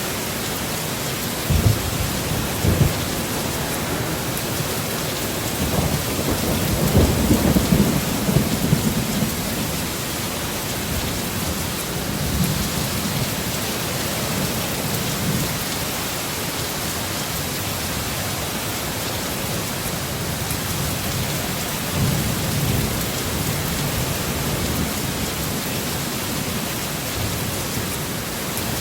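Heavy rain falling steadily, with thunder: two sharp claps in the first few seconds, a longer rumble about a quarter of the way through, and a softer rumble about three quarters through.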